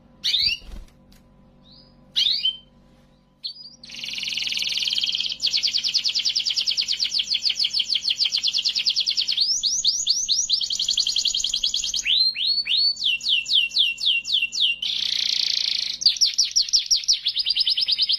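Domestic canary singing: a few short separate chirps at first, then from about four seconds a continuous song of very fast rolling trills, switching to a new trill every second or two.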